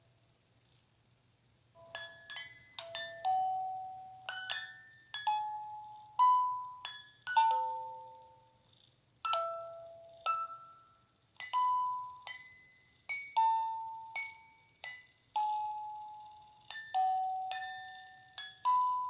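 Slow lullaby melody of single bell-like chime notes, each struck and ringing away, starting about two seconds in after a brief near-silent pause.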